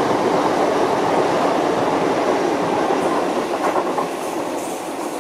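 A train running past on the line: a steady, loud rumble of wheels on rail with a few faint clicks, easing off slightly near the end.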